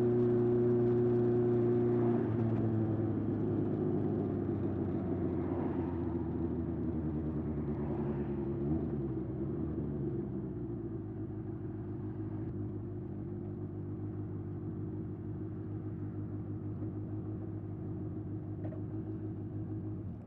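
Honda CB750F's air-cooled inline-four running through a Yoshimura exhaust. Its note holds steady after a rev, eases down about two seconds in, then runs on evenly and slightly quieter until it cuts off suddenly at the end.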